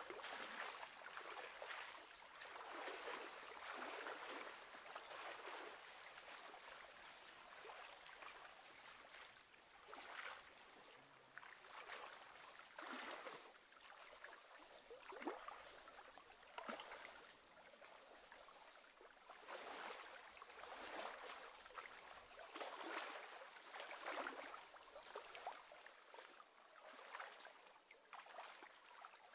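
Faint small waves lapping and splashing on choppy lake water, in soft irregular surges every second or two.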